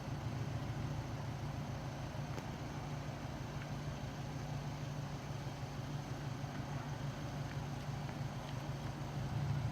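Steady low drone of idling vehicle engines.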